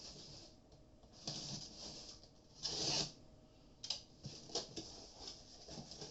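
Rustling and handling of a parcel's packing material as it is unwrapped: a few hissing swishes, the loudest about halfway, then a run of small clicks and knocks as the contents are handled.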